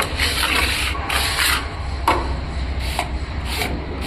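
Repeated rough scraping strokes, about five in four seconds, each lasting about half a second, with a couple of short sharp knocks between them.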